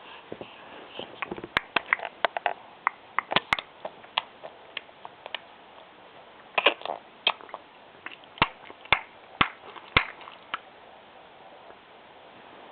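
A run of sharp, irregular clicking and smacking mouth noises, some single and some in quick clusters.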